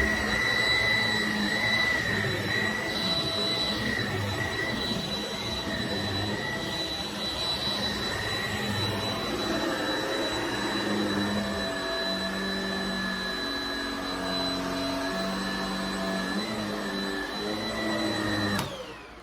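Shark Rocket stick vacuum running on carpet: a steady high motor whine over a changing lower hum. It is switched off near the end, cutting off sharply as the motor spins down.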